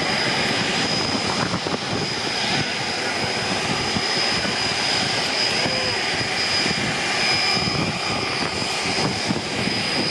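Steady jet airliner engine noise on an airport apron, a dense rush with a thin high-pitched whine held over it.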